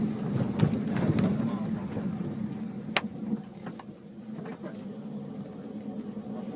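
Car running along a street, engine and road noise heard from inside the cabin as a steady low hum, with a sharp click about three seconds in.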